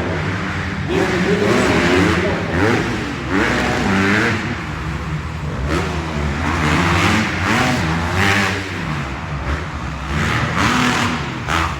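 Dirt bike engines revving hard and dropping off again and again as the riders race around the arenacross track, the pitch repeatedly climbing and falling.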